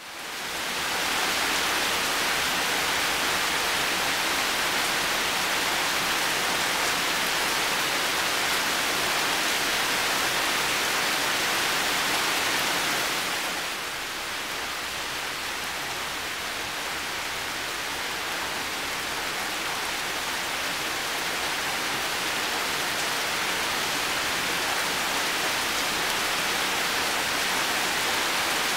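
Heavy rain falling steadily, a dense even hiss that fades in over the first second and drops slightly in level about 13 seconds in.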